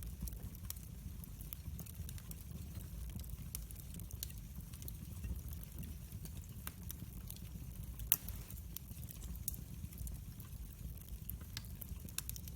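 Wood fire in a fireplace crackling: scattered sharp pops and ticks over a low, steady rumble of the flames, with one louder pop about eight seconds in.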